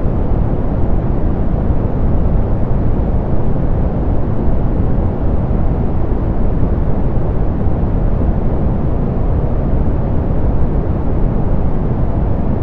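Steady, softened pink noise: an even hiss weighted toward the low end, with the highs rolled off, unchanging throughout.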